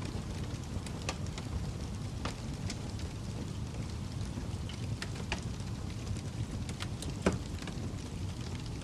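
Fire crackling: a steady low rumble with irregular sharp pops and snaps, one louder pop about seven seconds in.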